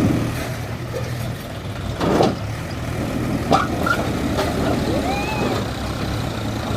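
Mahindra 475 DI tractor's diesel engine running steadily, with a few short knocks and a brief rising-and-falling tone about five seconds in.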